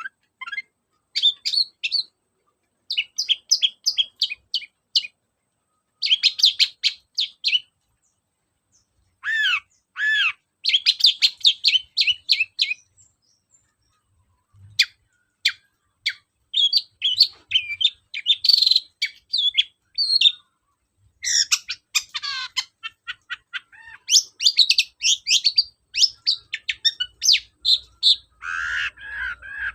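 Long-tailed shrike singing: bursts of rapid high notes a second or two long, broken by short pauses, with a lower run of notes near the end.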